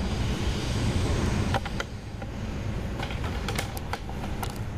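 Passenger train running, heard from inside the carriage: a steady low rumble with several sharp clicks.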